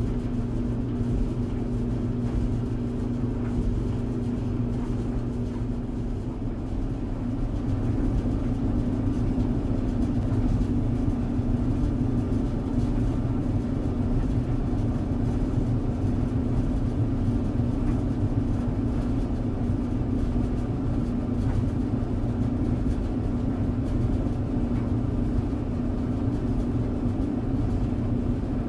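Tumble dryer running: a steady low rumble with a motor hum. The hum shifts slightly and gets a little louder about seven seconds in.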